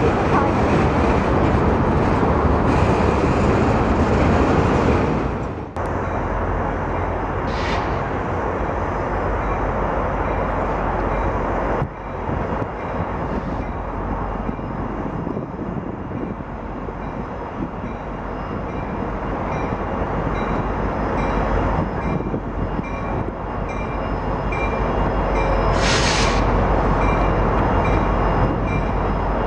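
Freight train rolling past: a steady rumble and rattle of freight cars on the rails. Near the end there is a short, high hiss.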